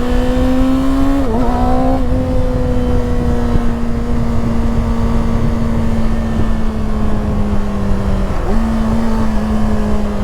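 Kawasaki Ninja ZX-6R's 636 cc inline-four running at a steady cruise under way, a loud drone that sounds like a big vacuum cleaner. Its pitch dips briefly about a second in and again near the end, then settles a little lower, over a low rumble of wind.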